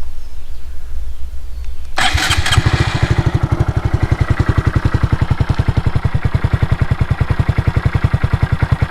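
A 2015 Honda Grom's 125cc single-cylinder four-stroke engine, fitted with an aftermarket slip-on exhaust, is started about two seconds in. It catches almost at once and settles into a steady, evenly pulsing idle.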